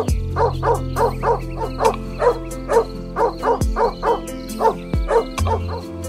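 Dog barking in a rapid run of short barks, about two or three a second, over background music; the barking stops shortly before the end.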